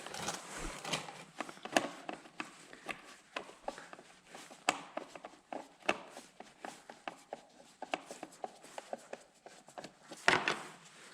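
Irregular light clicks, taps and rattles of hand tools and plastic bodywork as the rear plastics of a pit bike are unfastened, with a louder knock about ten seconds in.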